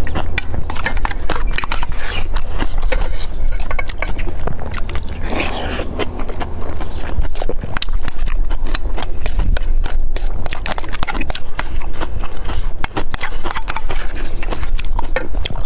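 Close-miked eating: a man chewing and crunching spicy kimchi with rice, a dense run of crisp clicks and smacks.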